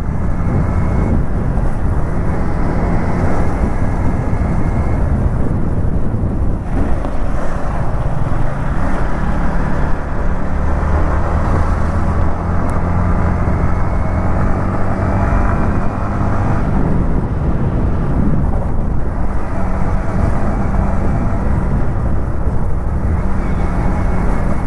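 Yamaha MT-15's single-cylinder engine running while riding at road speed, heard from the rider's position with wind and tyre noise. The engine note shifts a couple of times as the throttle changes.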